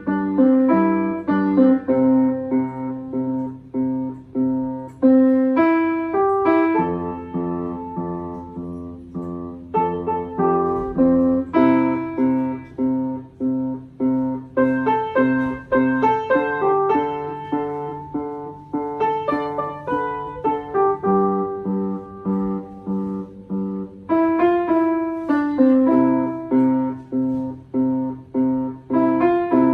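Solo piano playing a piece, with a steady pulse of repeated notes under a changing melody.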